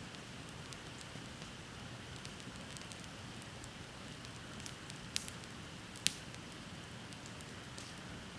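Wood bonfire crackling: scattered small ticks and two sharper pops about five and six seconds in, over a steady hiss.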